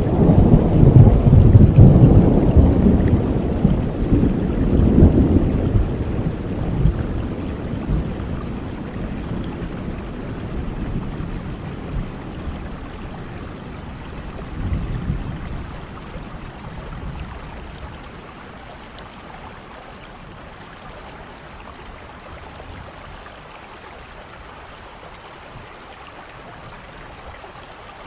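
Thunder rumbling loudly over steady rain, then slowly dying away over about fifteen seconds, with a brief smaller rumble midway, leaving the even hiss of rainfall.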